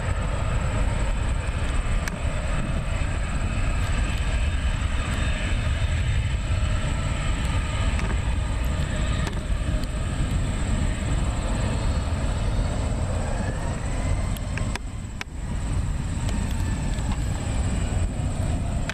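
Boeing 757-200's twin jet engines at takeoff thrust: a loud, steady roar with a deep rumble and whining tones. One whine rises in pitch about two-thirds of the way through, and the roar dips briefly soon after.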